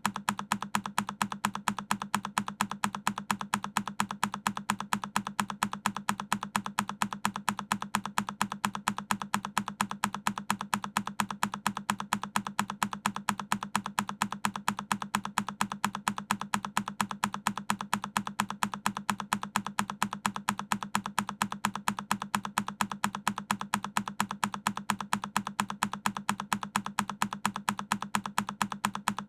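Single key press on a Keychron K10 mechanical keyboard, repeated as a loop: sharp clacks in quick, evenly spaced succession, each with the same low thock beneath the click.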